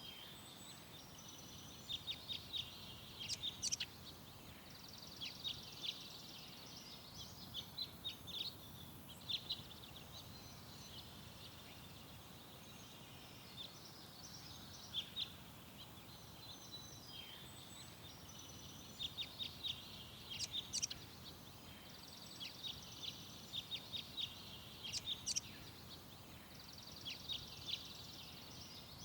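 Small songbirds chirping and singing: quick high chirps and short trills come in repeated clusters, over a faint steady background hiss.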